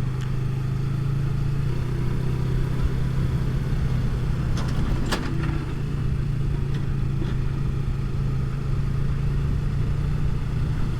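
Motorcycle engine running steadily under way, with road and wind noise; the engine note drops a little about two seconds in and comes back up about five seconds in, with a single sharp click near the change back.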